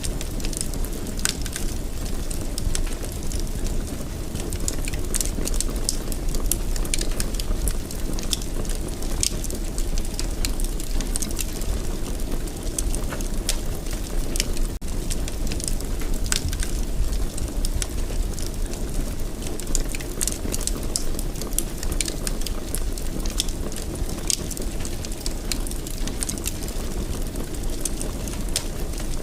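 Wood fire burning in a fireplace: frequent small crackles and pops over a steady low rumble of the flames.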